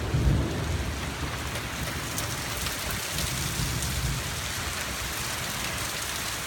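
Steady rain during a thunderstorm, with low rumbles of thunder at the start and again about halfway through.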